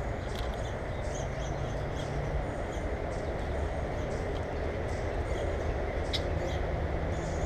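Small birds giving short, scattered chirps over a steady low rumble. The clearest chirp comes about six seconds in.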